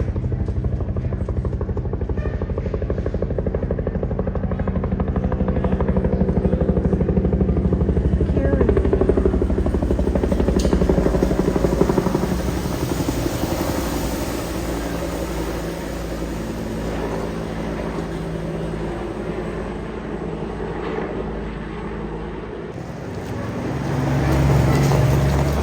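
Bell UH-1 Huey helicopter's rotor beating rhythmically as it flies by, loud for the first dozen seconds and then fading.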